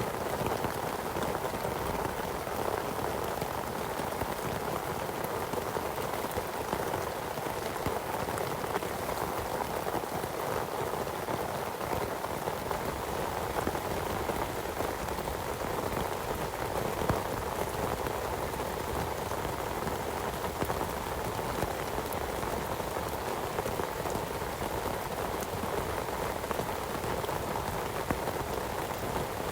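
Heavy rain falling steadily, a dense hiss of many separate drop hits that keeps the same strength throughout.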